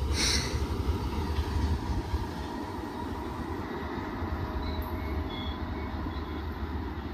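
Regional passenger train pulling away along the track, its low rumble slowly fading as it recedes. A short high-pitched burst sounds just after the start.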